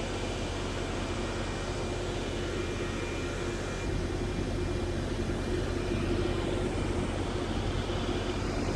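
MBTA commuter rail diesel locomotive engine running with a steady low drone that grows a little louder about halfway through, as the engine starts to throttle up for departure.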